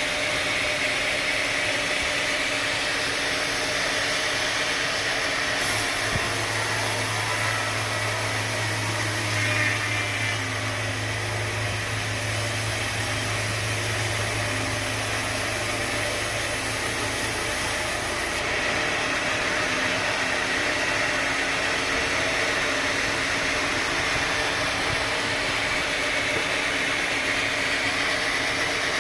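Sawmill machinery running steadily: motor hum and mechanical noise. A deeper hum joins from about six seconds in until about eighteen seconds in.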